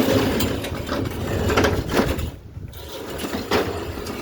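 Bicycle being handled and wheeled, its freewheel ticking in an irregular clicking ratchet, with rattles from the frame.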